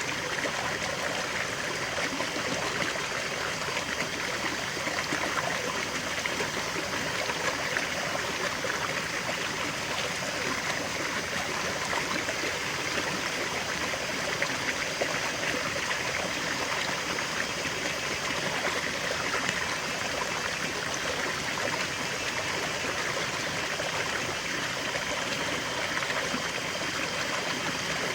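A small stream steadily trickling and babbling over stones.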